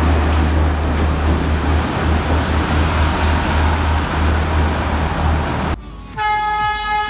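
Diesel multiple unit's engine running with a loud low rumble while the train stands at the platform. It cuts off, and near the end a train horn sounds one steady note.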